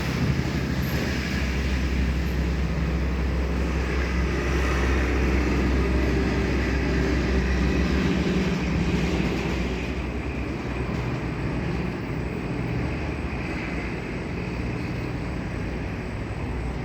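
Istobal M12+ rollover car wash gantry running through its wash cycle: a steady machine noise with a low rumble. It drops a little in level and loses some of its higher hiss about ten seconds in.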